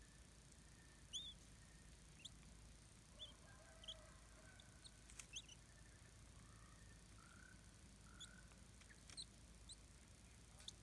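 Faint, short, high-pitched bird chirps, about a dozen scattered irregularly, over a steady low background hiss.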